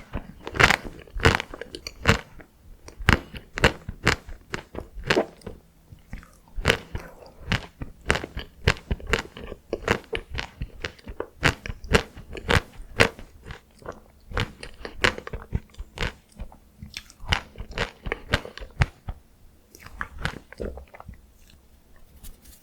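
Close-miked biting and chewing of chocolate-coated Tico ice cream: an irregular run of crisp crunches, a few a second, that grow softer and sparser near the end.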